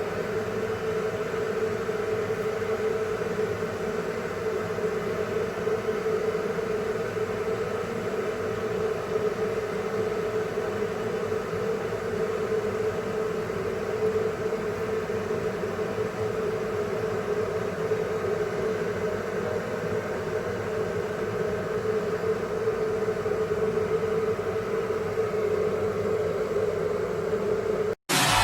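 Steady machine hum with a constant tone, cutting off suddenly near the end.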